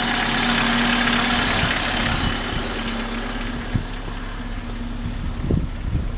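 Honda A20A3 2.0-litre four-cylinder engine of a 1988 Accord LX-i idling steadily. Wind buffets the microphone in the second half.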